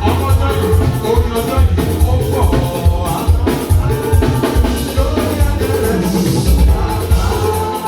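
Live church band music with a steady drum beat and bass, and some singing.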